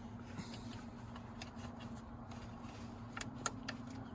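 A few sharp clicks about three seconds in over a steady low hum, with no starter cranking: the 1986 Chevy C20's ignition being worked while the truck doesn't start, its ignition actuator missing.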